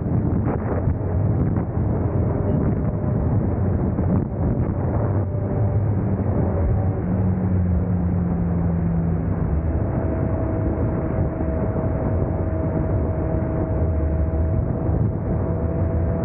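Triumph superbike running at high speed: a steady engine note held at constant revs under heavy, continuous wind rush.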